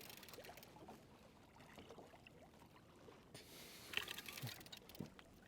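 Near silence: faint water noise around a fishing kayak, with a few light clicks and knocks about four and five seconds in.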